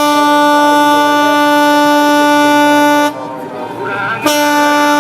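A departing ship's horn sounds two long, steady blasts: the first lasts about three seconds, and the second begins just over a second later and is still sounding at the end.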